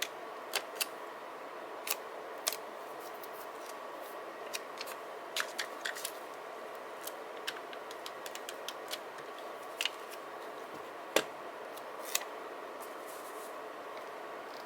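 Scissors snipping paper: a series of short, sharp, irregular clicks over a steady background hiss, the loudest about eleven seconds in.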